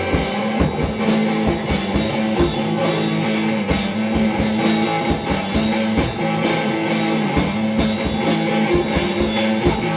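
Instrumental passage of a rock song: electric guitar and drum kit playing a steady beat, between sung verses.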